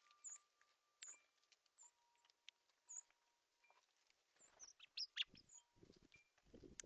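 Small songbirds giving short, high chirps, with a wind chime ringing softly in long, steady tones. In the last couple of seconds the calls come quicker and sweep downward, mixed with a few low, muffled bumps.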